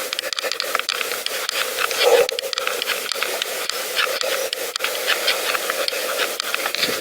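Pedal bicycle being ridden: a steady hiss of tyre and rolling noise with many quick, irregular rattling clicks.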